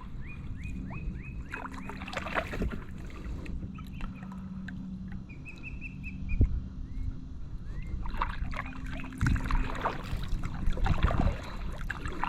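Kayak paddle strokes splashing and dripping in the water, in bursts. A bird calls over them, with a quick run of short repeated chirps at the start and a brief warbling note about five seconds in.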